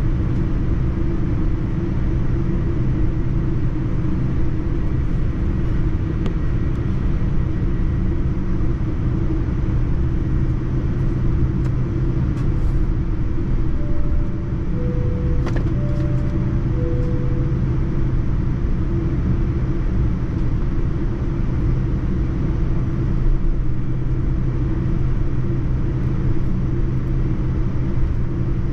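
Steady cabin noise of a Boeing 787-9 airliner: a low rumble with a constant engine hum. About halfway through, a two-tone cabin chime sounds twice, high then low each time.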